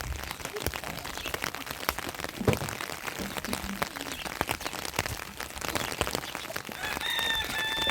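Heavy rain pattering, with many small drop hits. Near the end a steady, high-pitched call with a flat pitch starts and is held for about a second.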